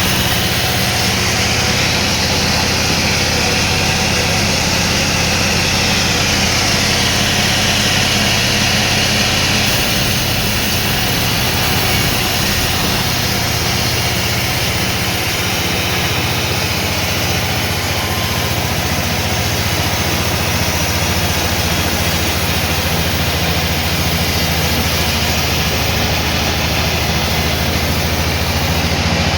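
Sawmill machinery running steadily: a low engine hum with a constant noisy hiss above it, holding at a loud, even level throughout.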